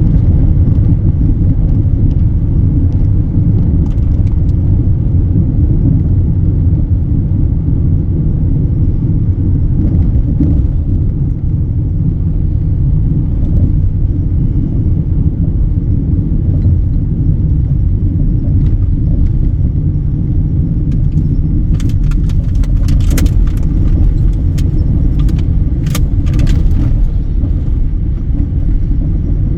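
ZNA truck's engine running with a steady low rumble. A run of sharp clicks and rattles comes toward the end.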